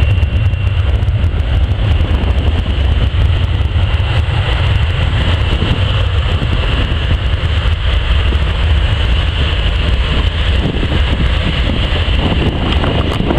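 Jet airliner engine noise: a steady roar with a faint high whine, mixed with wind rumbling on the microphone.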